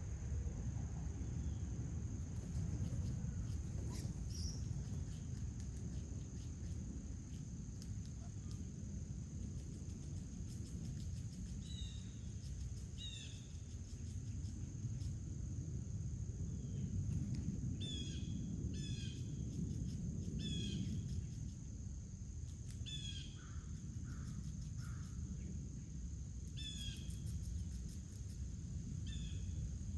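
Outdoor backyard ambience: a steady low rumble, a constant high insect drone, and a bird giving short repeated chirps from about twelve seconds in, coming more often in the second half.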